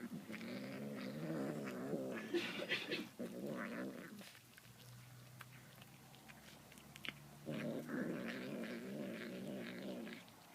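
Domestic cat growling with a demonic-sounding, wavering moan while eating tuna. There are two long growls, one running for about the first four seconds and another from about seven and a half seconds until near the end. A quieter low drone and sharp chewing clicks fall between them.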